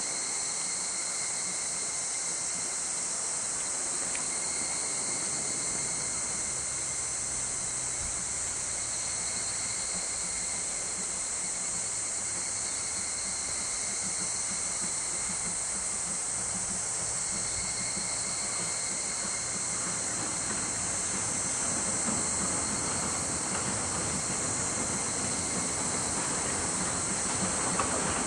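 JNR Class C56 steam locomotive working a train, faint at first and getting louder over the last third, heard over a steady, high-pitched insect chorus.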